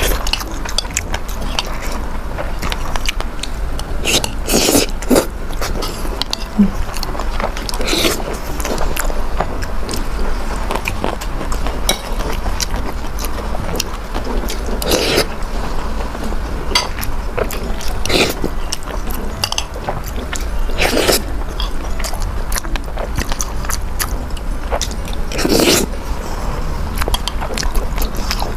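A person eating close to the microphone: chewing and biting, with many small mouth clicks and about six louder, short bites or slurps spread through the stretch.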